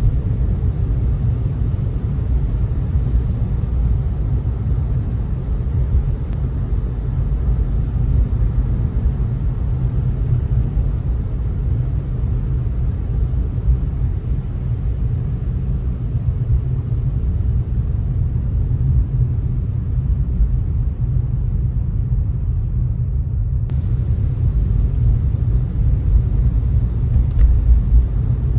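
Car driving at a steady pace: continuous low rumble of road and tyre noise.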